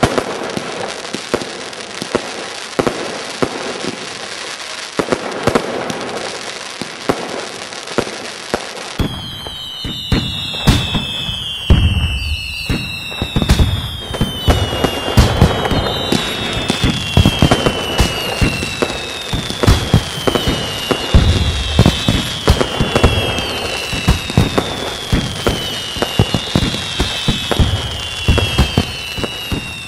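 Fireworks going off: a dense run of bangs and crackling. From about nine seconds in, repeated whistles that fall in pitch sound among the bangs.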